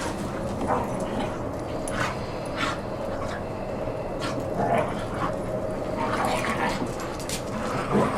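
Pet dogs giving short whines and yips, a dozen or so separate cries spread over a few seconds, over a faint steady hum.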